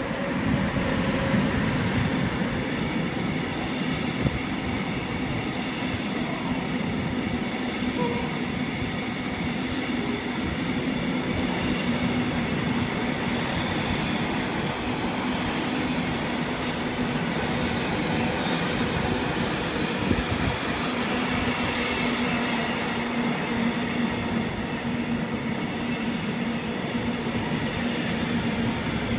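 A train rolling past on the line: steady wheel-on-rail noise with a held low hum and faint high tones, swelling up as it begins.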